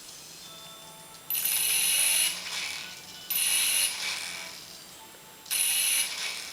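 Small electric motor and gears of a toy helicopter whirring in three short bursts, the first about a second long and the next two shorter, each starting abruptly and dying away.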